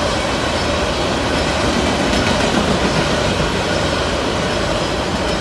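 Freight train's covered hopper cars rolling past at close range: a steady rumble of steel wheels on rail, with some clickety-clack over the rail joints.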